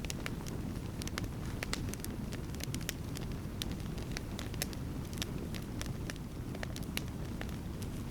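Wood campfire crackling, with frequent sharp pops and snaps at irregular intervals over a steady low rumble.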